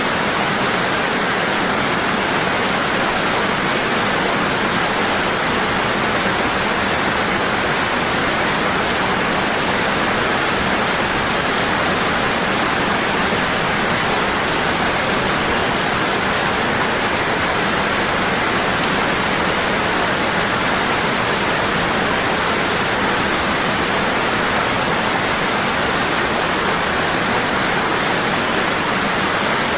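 Waterfall, water falling strong and constant: a steady, even rush with no breaks.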